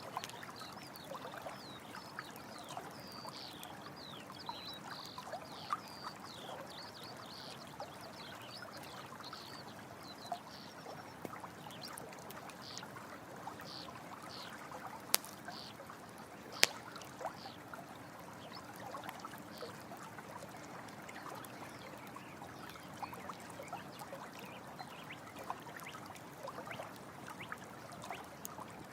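Running water trickling and splashing steadily, with a campfire crackling over it: scattered sharp pops, two louder ones about a second and a half apart past the middle. Short high chirping calls sound through the first half.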